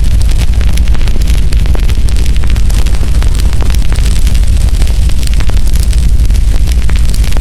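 Burning firewood crackling and popping, with many sharp snaps over a steady low rumble.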